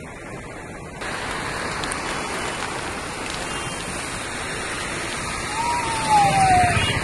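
Heavy rain pouring, a steady hiss that grows louder about a second in. Near the end an auto-rickshaw passes close, adding a low engine rumble, with a short tone sliding down in pitch over it.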